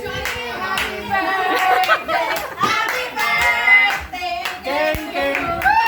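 Hands clapping many times, irregularly, over several overlapping voices.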